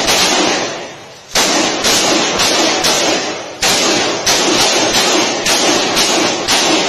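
A series of loud, heavy thuds, about one and a half a second at an uneven pace, each ringing out with a long echo.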